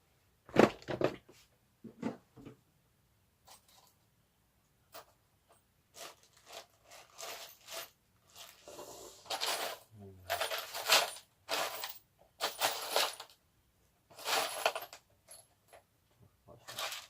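Small metal hardware, washers and nuts, clinking and rattling in a string of short, irregular clatters as they are handled and fitted onto the scooter's fuel-tank mounting bolts.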